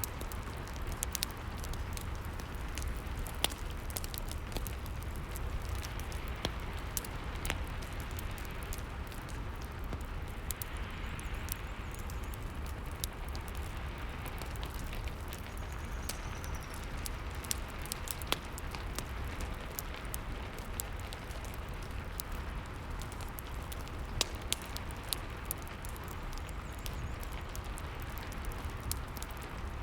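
Rain and fireplace ambience: a steady hiss of rain over a low rumble, with the sharp pops and crackles of a log fire scattered through it.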